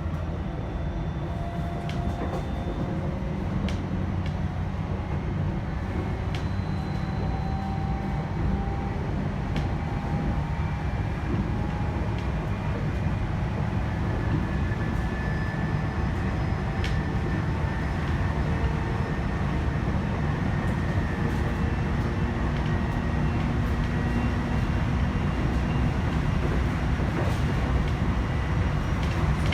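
JR E129 series electric train running, heard from inside the motor car: a steady rumble of wheels on rail, a faint traction-motor whine slowly rising in pitch, and a few sharp clicks.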